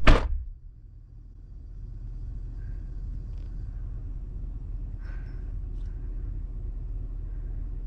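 A truck's engine running with a steady low rumble, heard inside the cab while the truck sits bottomed out in the mud. A short loud sound comes right at the start, and the rumble dips for a moment before settling.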